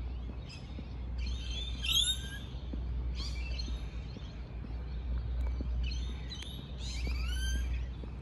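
Birds chirping in about six short bursts of quick rising and falling calls, over a steady low rumble.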